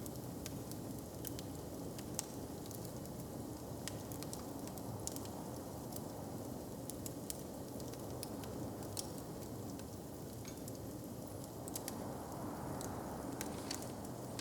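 Open fire crackling: scattered sharp pops and snaps over a steady low rumble.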